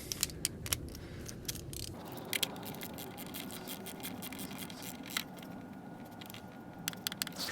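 Faint metallic clicks and scrapes of hand tools tightening the 10 mm bolt that holds an ignition coil on a Hyundai 2.0 GDI engine, the bolt being torqued down; the clicks come irregularly throughout.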